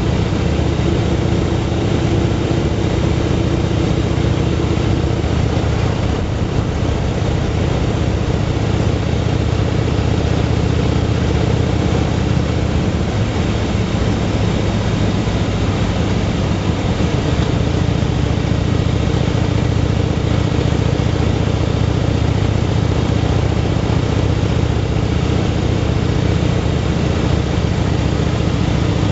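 Motorcycle engine running steadily while riding, its even drone under a constant rush of noise.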